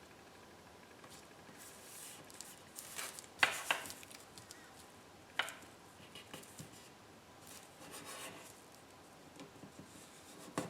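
Paper and card being handled and rubbed down by hand as glued painted paper is pressed onto a card tag: soft rustling, with a couple of sharp taps about three and a half seconds in and another a couple of seconds later.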